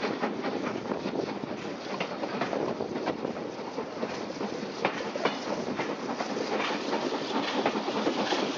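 Railway carriage running along the track, a steady rumble with irregular clicking of the wheels over the rail joints.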